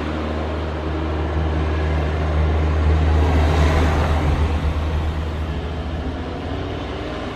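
Airplane engine noise over a heavy low rumble, swelling to its loudest about midway and easing off again, as of an aircraft passing close on a landing approach.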